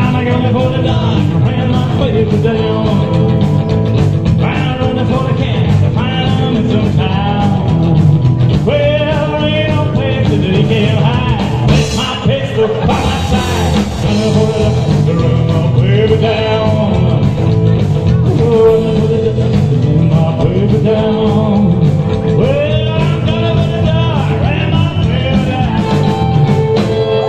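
Rock and roll band playing loudly over a steady beat and bass, with a lead melody line that bends and wavers.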